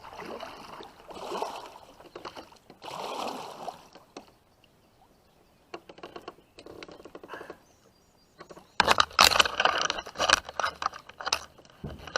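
Water sloshing around a kayak as it is paddled up to a tight bank line. About nine seconds in comes a loud run of splashing and knocking for about three seconds: a hooked catfish thrashing at the surface.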